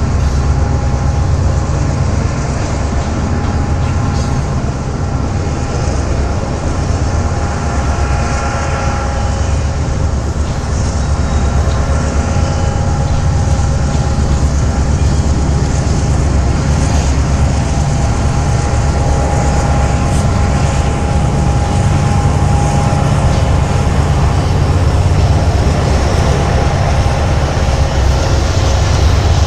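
BNSF coal train rolling on the track: a loud, steady rumble of wheels and cars on the rails, with faint steady high tones running over it.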